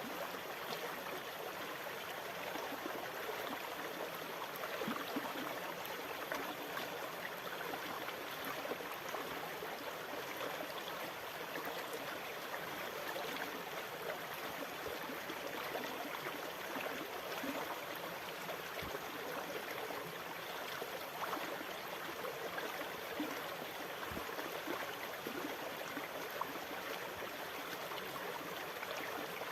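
Continuous rushing water, a steady even wash with no distinct waves breaking or pauses.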